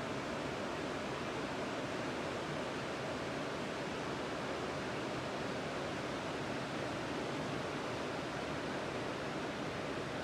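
Sea surf on a beach: a steady wash of breaking waves, with no single crash standing out.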